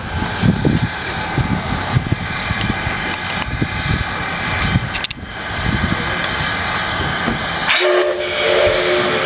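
A C57 steam locomotive's whistle sounds about eight seconds in, a steady multi-tone blast that is still going at the end. Before it there is only low, rough background noise.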